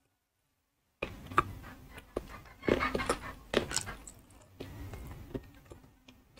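Close-up crunching and chewing of chunks of baked edible clay (ayilo, calabash chalk) in the mouth: a rapid run of sharp, brittle crunches that starts after about a second of silence, thickest and loudest about halfway through.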